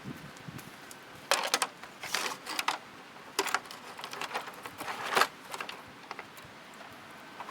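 Irregular clicks, rattles and scrapes of hands working with tools or parts, in short bursts about a second apart; no saw is running.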